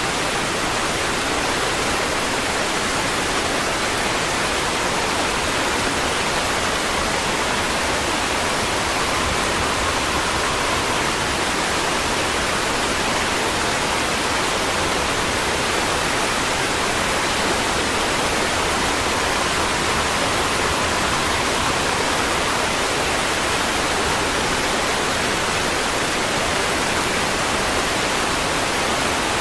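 Steady, unbroken rain hiss at a constant level, a dense even wash with no separate drops or thunder standing out.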